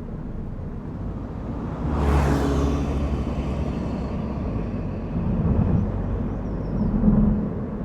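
Car driving on a mountain road: a steady low rumble of engine and tyres, with a louder rushing swell about two seconds in that fades away over the next couple of seconds.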